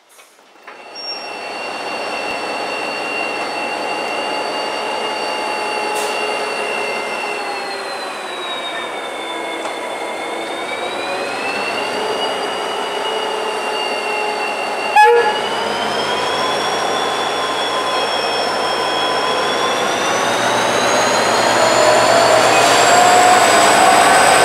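Irish Rail freight train hauled by a 071-class diesel locomotive running past, with a high whine that dips and then rises in pitch over the rumble of the wagons. A sharp click about fifteen seconds in, and the sound grows louder toward the end.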